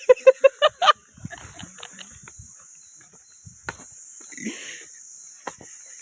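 A person laughing in quick, even bursts for about a second, right after a joke. Beneath it, insects shrill in a steady high drone throughout, with a few faint clicks and knocks later on.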